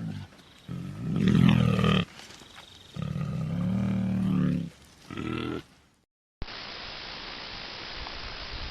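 Three deep animal calls, like grunts or roars: a long one about a second in, another at about three seconds and a short one near the middle. Then a sudden drop-out, and a steady hiss of background noise.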